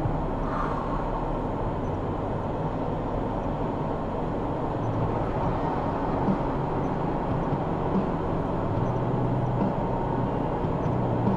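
Steady vehicle driving noise: a low engine hum under an even road rumble, with a few light knocks.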